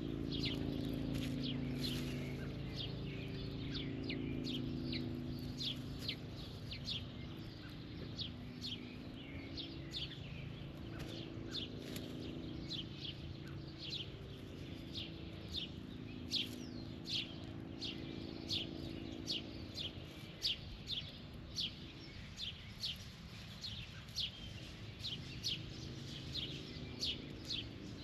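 A bird chirping over and over in short, sharp notes, about one to two a second, over a low hum that fades out about three quarters of the way through.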